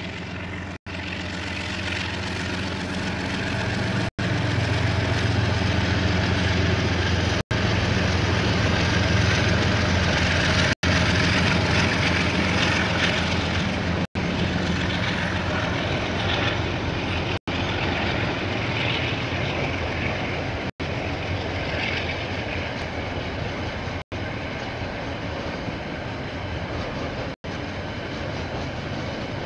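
KiwiRail diesel train passing, a steady low engine hum and running noise that swell to a peak about a third of the way through and then ease off a little. The sound cuts out for an instant roughly every three seconds.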